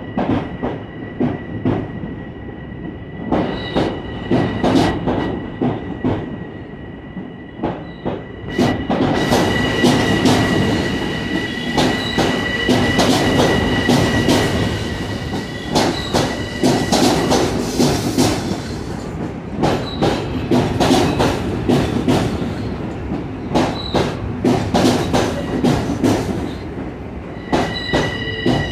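Long Island Rail Road electric multiple-unit train rolling slowly past, its wheels clicking over rail joints in clusters every few seconds as each car goes by. A steady high squeal, typical of wheels on curved track, runs through much of it and is loudest in the middle.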